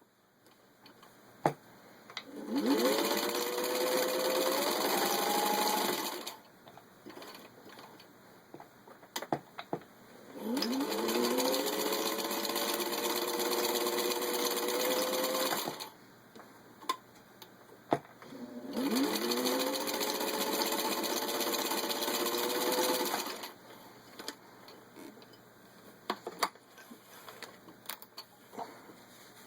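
Singer 15-91 sewing machine stitching through six layers of denim in three runs of a few seconds each; at each start the motor's whine rises as it speeds up, then holds steady until it stops. Light clicks and knocks between the runs.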